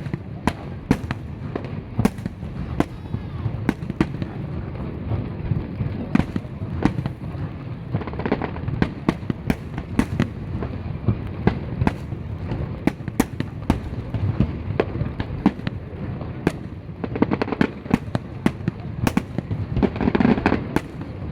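Fireworks display: aerial shells bursting in quick, irregular succession, sharp bangs over a continuous low rumble, the bangs coming thickest near the end.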